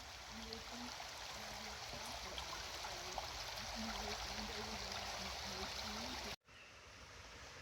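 Steady rushing noise of running water, with short faint low voice-like sounds in the background. The sound cuts out abruptly near the end, then picks up again.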